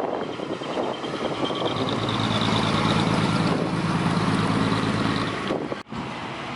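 Decorated truck's engine running through a manifold-cut open exhaust, steady in pitch, growing louder about two seconds in and easing off near the end, with a brief sudden gap just before the end.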